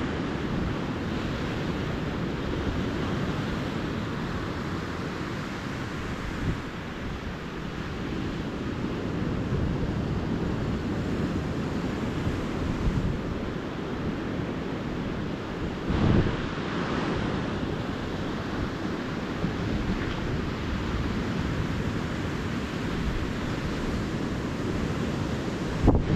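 Calm ocean surf washing steadily onto a beach, with wind buffeting the microphone; one wave comes in a little louder about two thirds of the way through.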